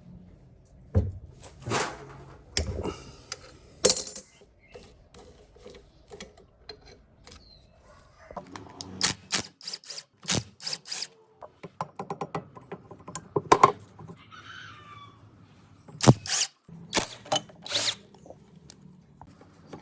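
Metal tools and parts clinking and knocking in irregular bursts, with a quick run of rapid clicks about twelve seconds in, as in hands-on repair work.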